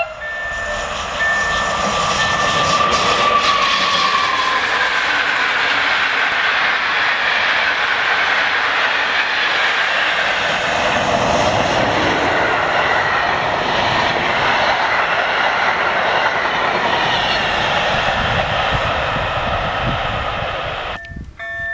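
Electric locomotive hauling passenger coaches passing close by, its wheels running over the rails in a steady, loud rush that starts about half a second in and fades near the end. A level-crossing warning signal's steady tone is heard at the start and again just before the end.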